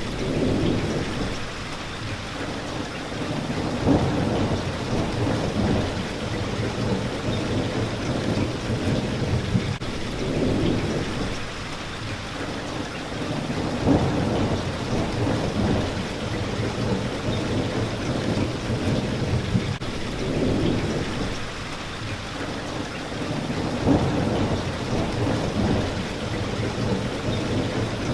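Steady rain on a window glass, with low rolling thunder rumbles swelling and fading every few seconds.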